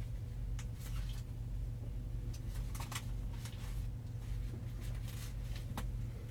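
Idling truck diesel engine, a steady low hum heard inside the cab, with scattered light clicks and rustles over it.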